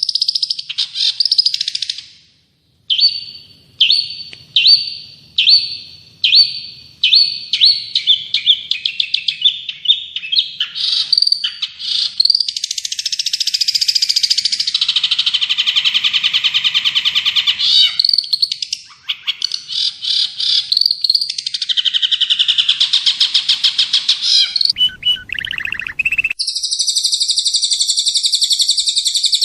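Recorded songbird song. It opens with a run of sharp chirps that speed up from about one a second to several a second, then turns into long, rapid trills and warbles, and ends in a high, even trill.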